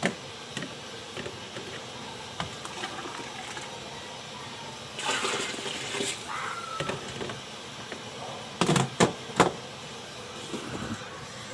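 Hot water being poured and splashing over freshly shaped meatballs, with a surge of splashing lasting about a second midway. Four or five sharp knocks follow, close together, about three quarters of the way through.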